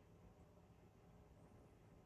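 Near silence: faint low background hiss.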